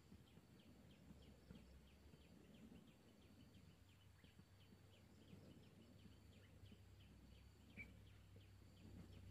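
Near silence: faint outdoor ambience with a faint, rapid chirping about four times a second, two faint steady high tones, and a low rumble.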